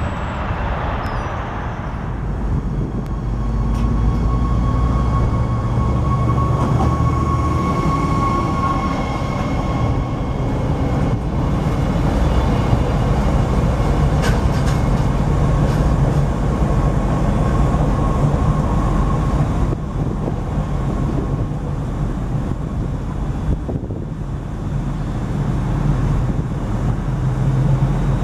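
Electric commuter train, an NJ Transit Arrow III multiple unit, running on the rails with a steady low rumble and a faint steady motor whine.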